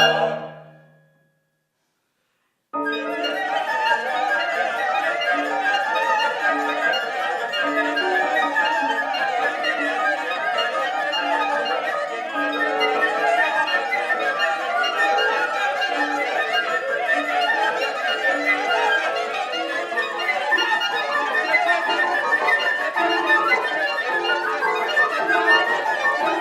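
Contemporary chamber music for a mixed ensemble of flute, clarinet, electric guitar, piano and voices. A held chord dies away into a moment of silence near the start. Then a dense, busy texture of many quick overlapping notes comes in suddenly and keeps going.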